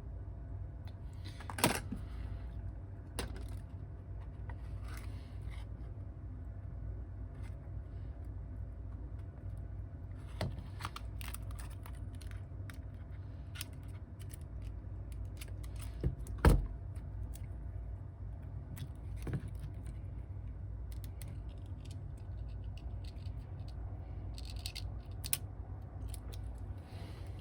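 Small tools and phone parts being handled on a repair bench: scattered light clicks, taps and scrapes, with a sharper click about a second and a half in and another near the middle, over a steady low hum.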